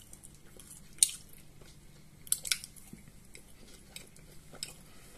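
Close-up eating sounds of a fried meat pastry: quiet chewing with a few short, sharp mouth clicks, the loudest about a second in and around two and a half seconds in.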